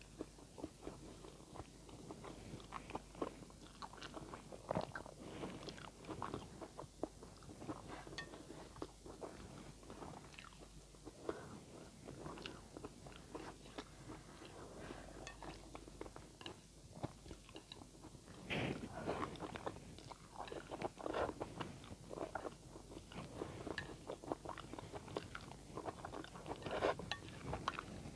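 A person chewing and eating a mouthful of instant noodles with chopped vegetables and fish, picked up with chopsticks. There are many short mouth clicks throughout, coming thicker about two-thirds of the way through.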